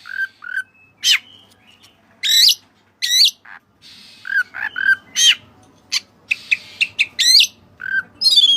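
Oriental magpie-robin (kacer) singing: loud, sharp whistled phrases with quick rising and falling sweeps, mixed with short lower chip notes, coming every half second or so. It is the kind of song used to lure and provoke a rival bird.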